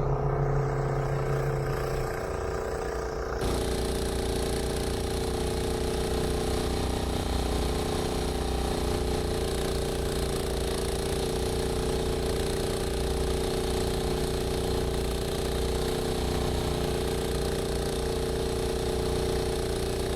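Engine of a snow-clearing machine running steadily under load. About three seconds in, a broad rushing hiss comes in suddenly on top and stays.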